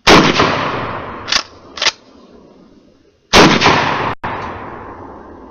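Two 12-gauge shotgun blasts with birdshot loads, about three seconds apart, each followed by a long echoing tail. Two short sharp clacks come between them, about half a second apart.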